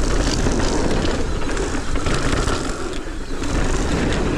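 Mountain bike rattling down a rough trail: the chain and frame clattering, the freehub's ratchet clicking, tyres over dirt and rock, with a steady low rumble of wind.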